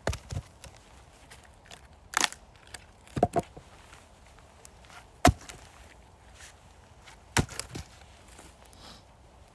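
Axe striking firewood logs being split: a series of sharp wooden knocks at irregular intervals, some in quick pairs, the loudest about halfway through.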